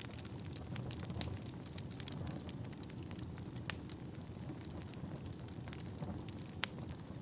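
Wood fire burning in a fireplace: a steady low rush of flames with scattered crackles and sharp pops, the loudest pops about a second in, near the middle and near the end.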